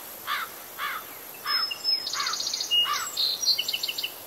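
Birds singing outdoors: a short, arched chirp repeats every half second or so, with a quick trill and thin whistles mixed in around the middle, over a faint steady high hiss.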